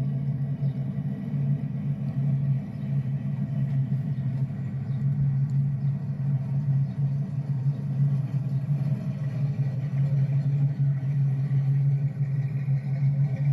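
A car engine idling steadily with a low, even engine note.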